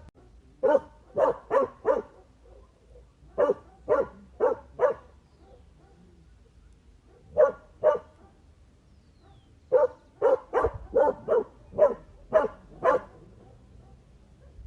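Dog barking in groups of short barks: a quick run of four, another four, a pair, then a longer run of about eight near the end.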